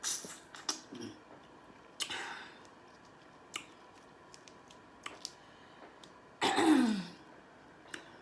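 Close-miked mukbang eating sounds: scattered wet mouth clicks and smacks from chewing seafood. About six and a half seconds in comes a louder, half-second throat sound with a falling pitch, like a throat clear or a 'mm'.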